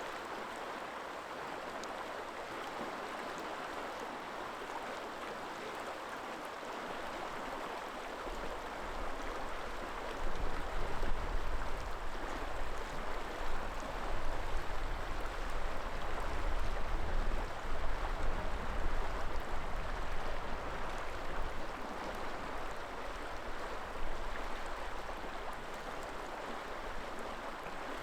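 River water rushing steadily over a streambed. From about a quarter of the way in until near the end, wind gusts buffet the microphone with an uneven low rumble, then die down.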